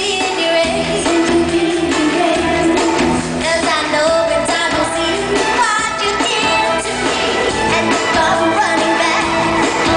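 A female singer singing a pop song live over a full backing band, amplified through a concert sound system.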